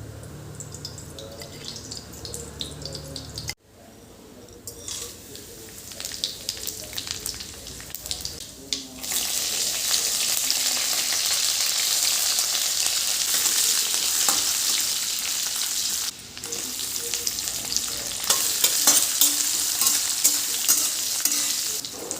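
Food frying in hot oil in a pan, sizzling steadily, with scattered clicks and scrapes of stirring. The sizzle grows much louder about nine seconds in. It breaks off abruptly twice.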